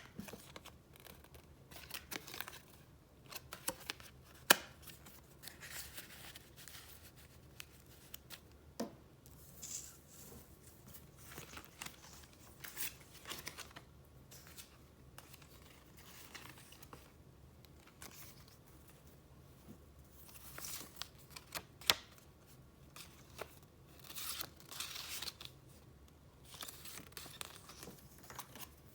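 Paper rustling and crinkling as sheets and papers are handled and flipped, in short uneven bursts, with a few sharp clicks or taps scattered through, the loudest about four and a half seconds in and about two-thirds of the way through.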